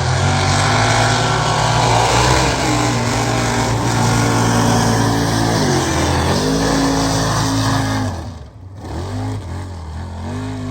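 Mega truck engine running hard at high revs. Its pitch dips and climbs again around six seconds in; about eight seconds in the throttle closes and the sound drops away, followed by a few short revs.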